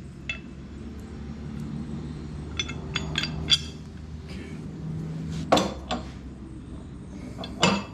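Metal clinks and knocks of mower blades, bolts and washers being handled as sharpened blades are fitted back onto the mower deck's spindles. There is a cluster of light clinks, then a few louder knocks in the second half, over a low steady hum.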